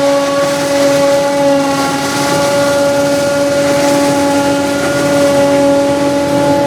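Forage harvester running at a steady working speed: a constant humming whine that holds one pitch over the machinery noise.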